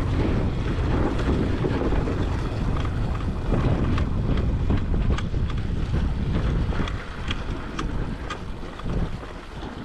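Heavy wind buffeting on the microphone of a camera on a moving dirt bike, with scattered sharp clicks and knocks. It eases off about seven seconds in.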